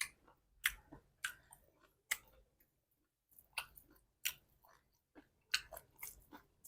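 A person chewing food close to the microphone: a series of short, wet mouth clicks and smacks at irregular intervals, with a brief pause midway.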